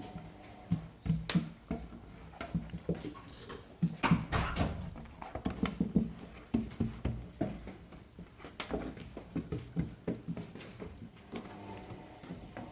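Hands working oiled msemen dough, spreading and folding the squares on a flat surface, making irregular soft slaps and pats.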